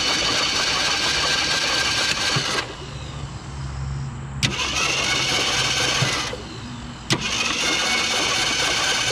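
Starter motor cranking a Ford Galaxie's previously seized engine with the spark plugs out, in three bursts, each starting with a click as the starter engages. The engine turns over freely without firing, working the oil poured into the cylinders through the engine: it is no longer stuck.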